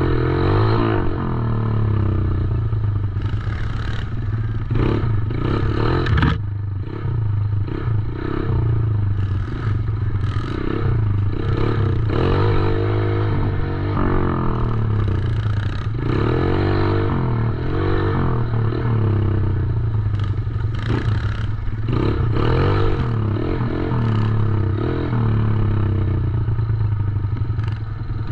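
Small 110cc four-stroke dirt bike engine running, revving up and falling back repeatedly as it is ridden.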